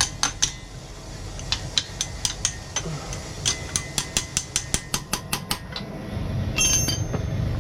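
Light metal-on-metal taps, about three or four a second, as a small steel pinion gear is knocked onto the shaft of an electric dirt bike's brushless hub motor to seat it. A short ringing metal clink comes near the end.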